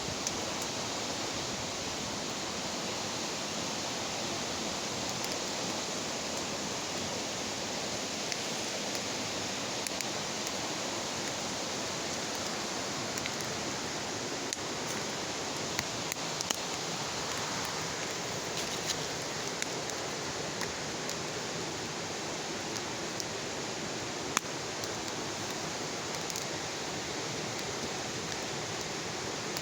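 Wood bonfire burning: a steady hiss with scattered sharp crackles and pops.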